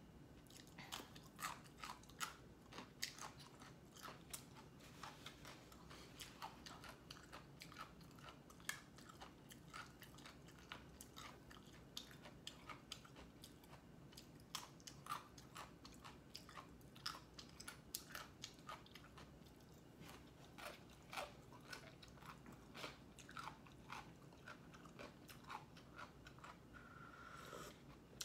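A person chewing instant noodles close to the microphone: faint, irregular wet mouth clicks, several a second.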